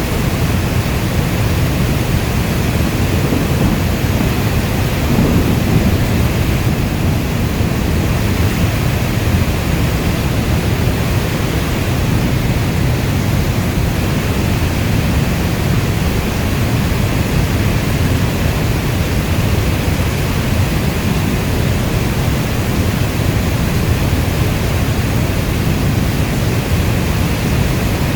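Steady heavy rainfall with a deep low rumble underneath, swelling slightly about five seconds in.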